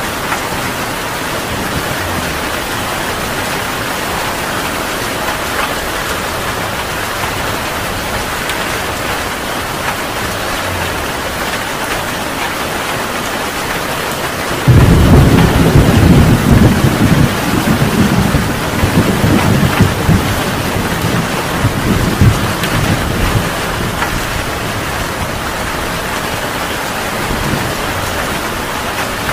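Heavy rain falling steadily. About halfway through, a loud clap of thunder breaks in suddenly and rolls for several seconds before fading back under the rain.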